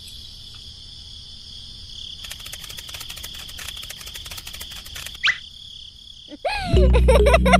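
Steady chirping of crickets, with a few seconds of rapid clicking in the middle and a short rising chirp; music starts about a second before the end and is louder than everything else.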